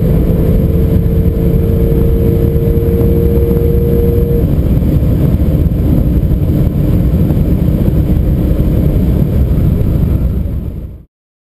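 Porsche 911 Turbo S's twin-turbocharged flat-six with road and wind noise, heard from inside the cabin: a loud steady drone whose engine tones hold level rather than climbing. It fades out and cuts to silence near the end.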